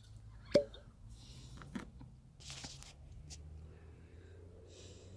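A single sharp knock with a brief ring about half a second in, as of a glass or small object set down on a hard surface, followed by a few soft breathy sips and exhales over a low steady room hum.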